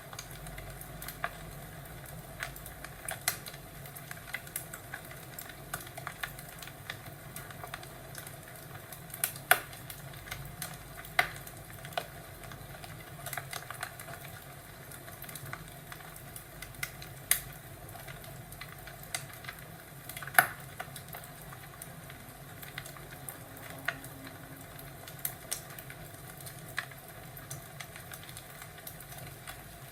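Fireplace crackling: a steady hiss with irregular sharp pops and snaps, two of them much louder, about nine and a half and twenty seconds in.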